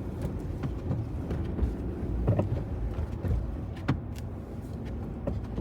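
Vehicle in four-wheel drive driving on a slippery snow-covered road: a steady low rumble of engine and tyres, with two short knocks, about two and a half and about four seconds in.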